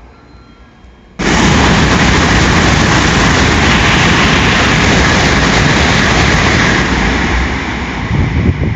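Tokaido Shinkansen train passing through the station at speed without stopping: a sudden loud rush of air and rail noise that holds for about six seconds, then fades.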